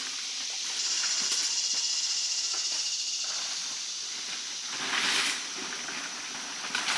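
A high, steady insect buzz with a fine rapid pulse, starting about a second in and stopping about three seconds in. It is followed by two brief swishes of footsteps pushing through wet brush, one near the middle and one near the end.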